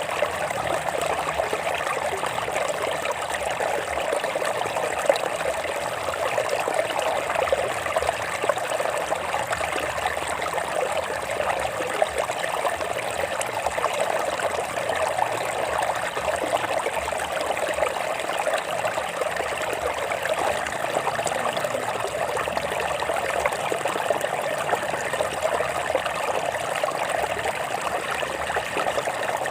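A small stream of water flowing and trickling over rocks, a steady splashing rush.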